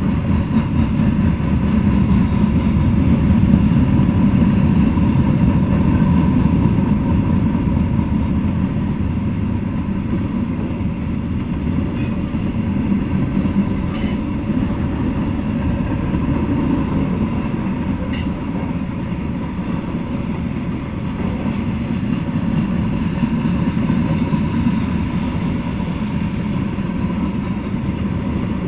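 Freight train of covered hopper and tank cars rolling past at speed: a steady rumble of steel wheels on the rails, with a few faint clicks about halfway through.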